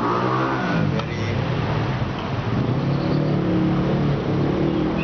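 Busy road traffic: motor vehicle engines running and passing close by, a steady hum of cars and motorcycles.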